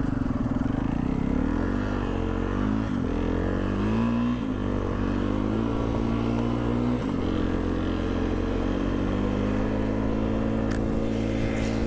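Snow sled engine running under way, its pitch repeatedly dropping and climbing as the throttle is let off and opened again.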